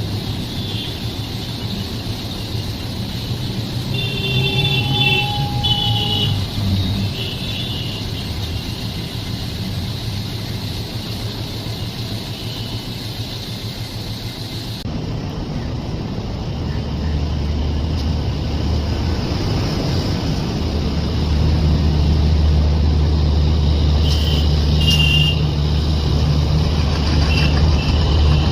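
Train running with a steady rumble, a few short high tones near the start, and a deep steady engine drone that builds from about halfway and grows louder.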